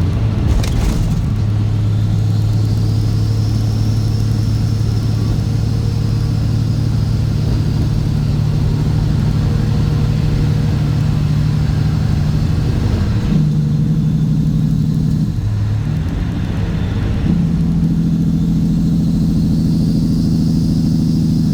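Straight-piped Cat C15 ACERT diesel engine of a Kenworth W900 pulling on the road with a steady low exhaust note. In the second half the note steps up and down in pitch a few times.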